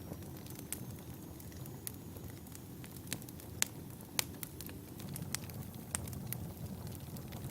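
Wood fire burning in a fireplace, crackling with irregular sharp pops over a low steady rumble; the loudest pop comes about halfway through.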